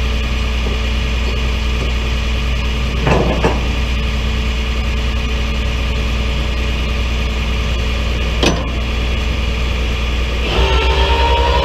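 An engine runs steadily, with two short sharp knocks a few seconds apart. Near the end, a whine comes in and rises slightly as the engine note changes.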